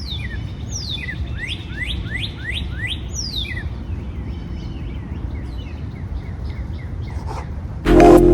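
Wild birds singing: a quick run of rising whistled notes, about three a second, and a few falling ones, over a steady low background rumble. Loud electronic music cuts in near the end.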